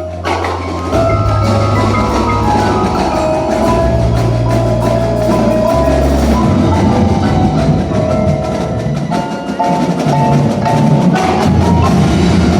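Indoor winter percussion ensemble performing: marimba and other mallet keyboard notes over drum strokes and long held low bass notes.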